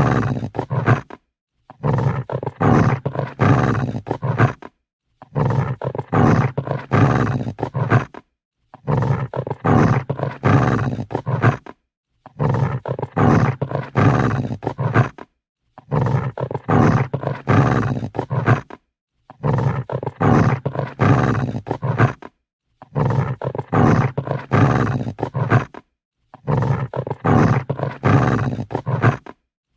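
Dog growling angrily: low, rough growls in evenly spaced bouts of about three seconds, each broken off by a short silence, repeating over and over.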